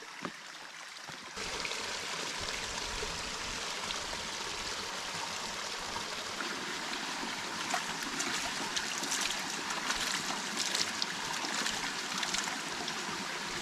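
Stream water running and splashing over rocks, a steady rush that grows louder about a second and a half in.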